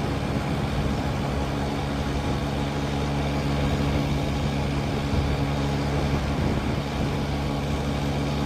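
Yamaha FZ-09's three-cylinder engine running at a steady cruise, its note holding level with no revving, under steady wind noise on the microphone.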